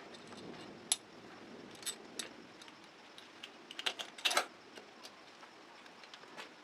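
Light metallic clicks and clinks of small metal parts being handled, a few separate ticks followed by a quick cluster about four seconds in.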